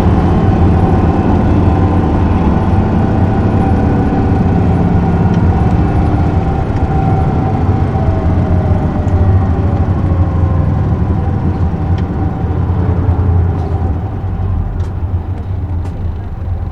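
Isuzu Erga city bus, with its 6HK1 inline-six diesel, running along, heard from inside the cabin as a steady low engine drone with road rumble. In the second half the engine's pitch falls slowly and the sound gets quieter, as the bus eases off.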